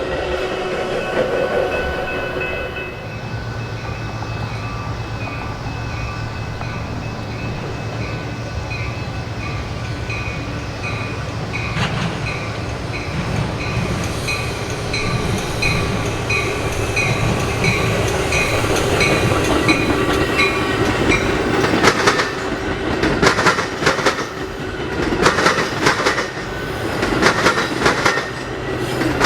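Train rolling past, railcars running steadily. A high, pulsing ringing tone runs through the middle, and from about three quarters of the way in the wheels clack sharply over rail joints.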